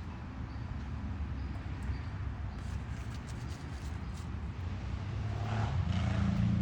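Low, steady rumble of a vehicle engine in the background, its hum growing stronger about five seconds in.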